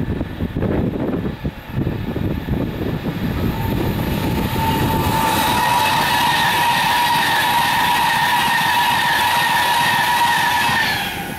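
Class 390 Pendolino electric train passing at speed, its wheels running on the rails with gusty wind on the microphone at first. About four seconds in, a loud steady rush sets in with a steady high whine over it, and both cut off suddenly near the end.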